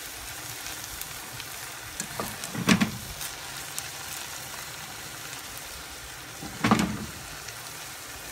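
Beef, onions and garlic sizzling in oil in a granite-coated frying pan while being stirred with a spatula; twice, once about a third of the way in and again near the end, the spatula scrapes louder against the pan.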